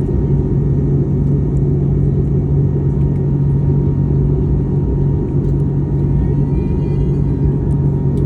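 Steady, loud low drone of an airliner cabin in flight: engine and airflow noise with a constant hum and a thin steady tone above it.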